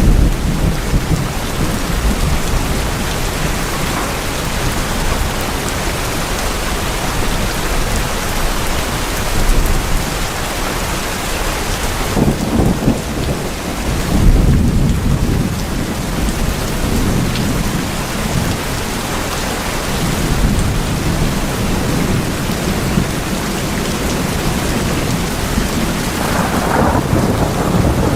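Steady rain drumming on tin houses, with thunder rumbling low underneath and swelling around the middle.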